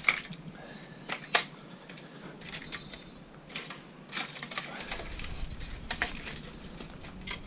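Pieces of scrap metal being handled, giving a string of sharp clanks and knocks, the loudest just after the start and about a second and a half in.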